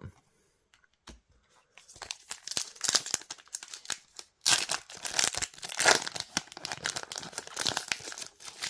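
Foil booster-pack wrapper of a trading-card pack being torn open and crinkled, a dense crackling that starts about two seconds in, pauses briefly about four seconds in, then carries on.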